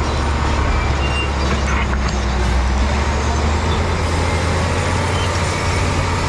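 Diesel engine of a heavy machine running steadily, with a low, even drone.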